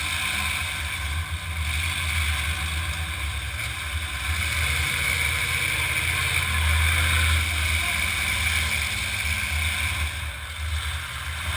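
Demolition derby car engines running, a steady low rumble with a hiss over it and no sharp crashes.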